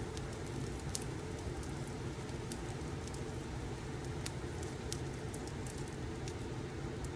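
Fireplace crackling: a steady low rumble of burning logs with scattered sharp pops and crackles at irregular intervals.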